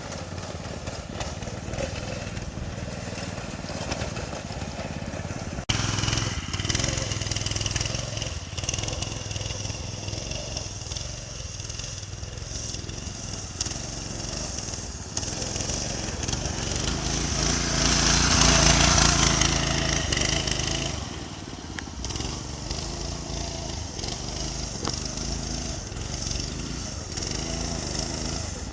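Predator 212 single-cylinder four-stroke engine on a go-kart running under way, its note rising and falling and at its loudest about two-thirds of the way through.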